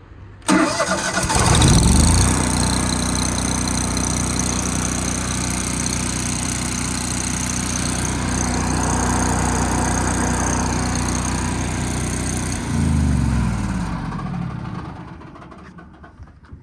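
Miller Bobcat 225 welder-generator's engine cranked and started, speeding up over about a second, then running steadily before being shut off near the end and winding down to a stop.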